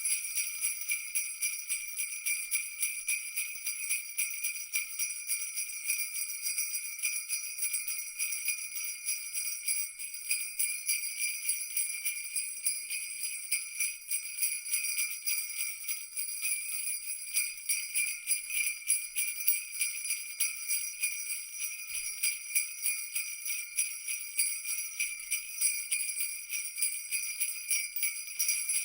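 Jingle bells shaken continuously in a steady, rapid jingling, the ringing bright and high with no low sound beneath it.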